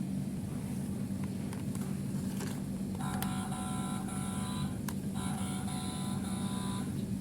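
Fire-engine sound effect played from a children's sound board book's small speaker: a steady low engine-like rumble, with a higher electronic tone sounding twice in the middle, about two seconds each.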